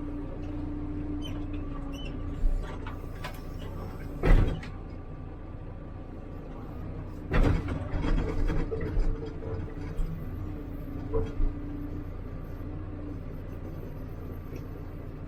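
HIDROMEK 102B backhoe loader's diesel engine running steadily, with a series of sudden clunks and knocks, the loudest about four seconds in and a cluster in the middle.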